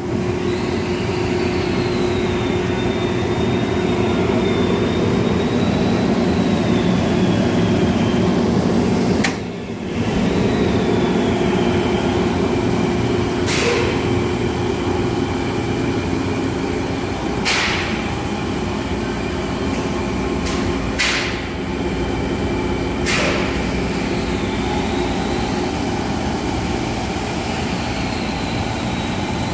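Kaeser SK 26 rotary screw air compressor running steadily, with a low hum and a faint high whine that wavers in pitch. It is broken by a brief dip about nine seconds in and by five short, sharp bursts spread over the next fourteen seconds or so.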